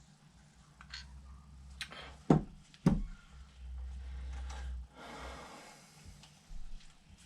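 Small knocks and clunks of parts and tools being handled on a workbench during a carburetor rebuild, with two sharper knocks a little over two seconds in, about half a second apart.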